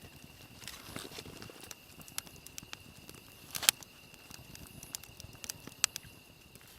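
Wood campfire crackling, with irregular sharp pops and clicks; the loudest pop comes a little past halfway.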